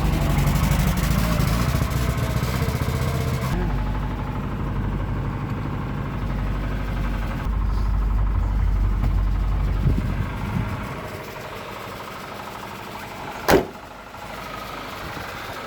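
The 1.5-litre four-cylinder engine of a Riley One-Point-Five is running. The car had broken down and only just been restarted, and the owner suspects dirt in the carburettor or an ignition fault. It runs steadily and gets quieter about two-thirds of the way through, and there is one sharp knock near the end.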